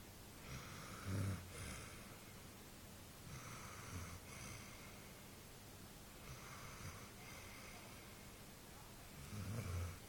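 A sleeping basset hound snoring: slow, hissing breaths about every three seconds, with a low snort about a second in and again near the end.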